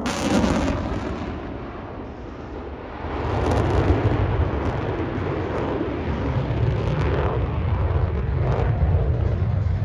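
Jet roar from the F-35A Lightning II's single afterburning turbofan, a heavy rumbling noise. It fades over the first two seconds and swells again about three seconds in, then holds.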